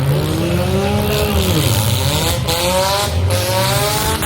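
Demolition derby car engines revving, their pitch rising and falling, with two or more engines overlapping.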